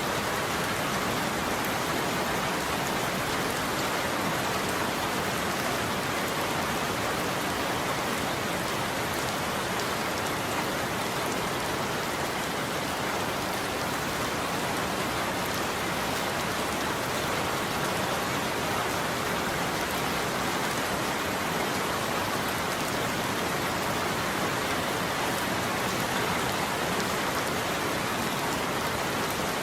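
Steady heavy rain falling on a surface, an even hiss of countless drops with no thunder.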